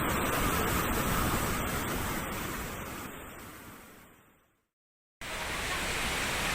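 Steady rush of waterfall water. It fades out over about two seconds into silence, then starts again suddenly.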